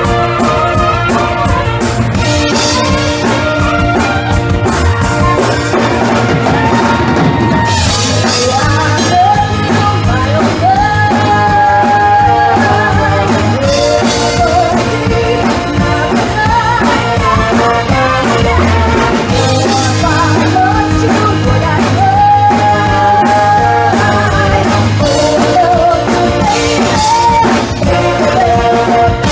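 A band playing up-tempo funky rock music with a drum kit, bass and a melody line.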